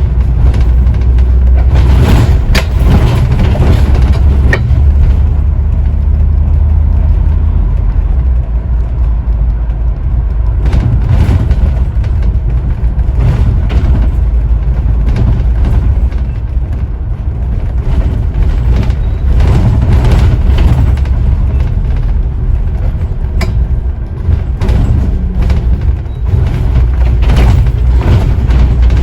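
Scania N94UD OmniDekka double-decker bus under way, heard from inside: a steady low engine drone with frequent knocks and rattles from the body.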